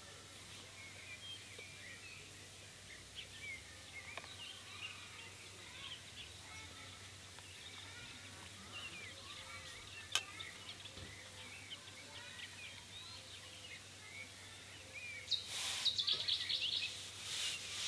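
Faint chorus of small birds chirping and twittering, with a single sharp click about ten seconds in. Near the end there is a short, louder rustle followed by a rapid run of high chattering notes.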